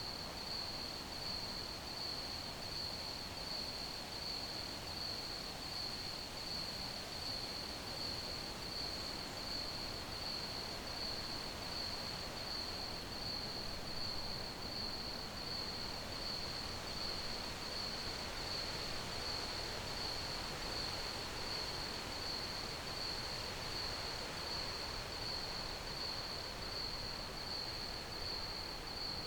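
Crickets chirping in a steady, unbroken high trill, over an even background hiss.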